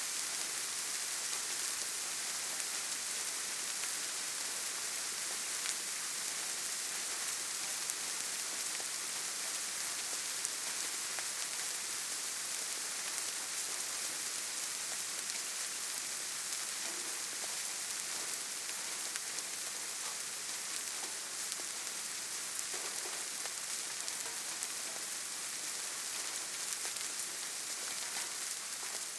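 Steady rainfall, a dense even hiss of drops with faint individual patters.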